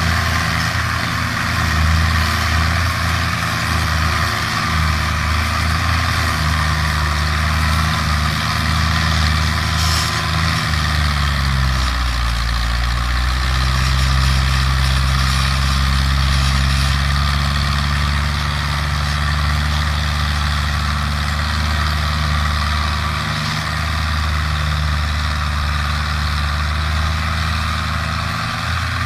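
Tractor engine running steadily; about eleven seconds in its pitch drops as the engine slows, then it runs on evenly at the lower speed.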